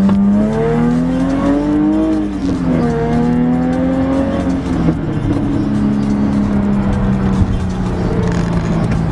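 Jaguar F-Type's supercharged V6 under hard acceleration, heard from inside the cabin: the engine note climbs, drops sharply at paddle-shifted upshifts about two and a half and five seconds in, then settles into a steady lower drone.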